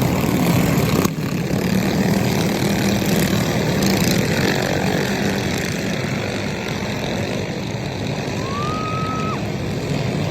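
Small pull-start mini bike engines running hard in a flat track race. A sharp knock about a second in.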